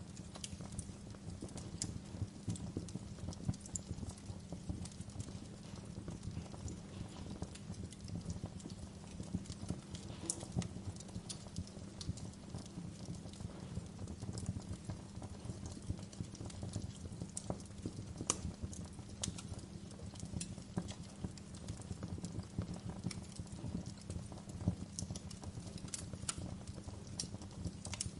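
Wood fire crackling in a fireplace: a steady low rumble of burning with irregular sharp pops and snaps throughout.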